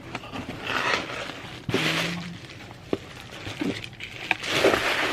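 Packaging being handled and opened by hand: irregular rustling with scattered clicks and taps.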